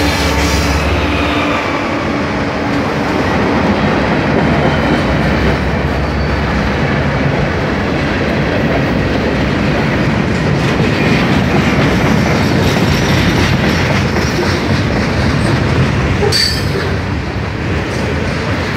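Freight train passing at close range: a diesel locomotive's engine hum fades out in the first second, then a steady heavy rumble of steel wheels rolling on the rail as tank cars and covered hoppers go by.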